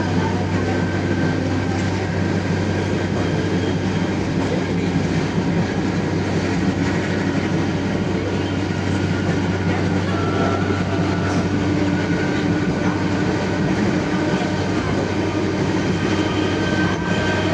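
Diesel passenger train running along the track with a steady, even rumble.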